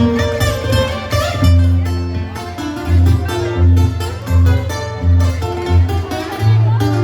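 Band music led by plucked strings, with a strong bass line entering about a second and a half in and pulsing in a steady rhythm.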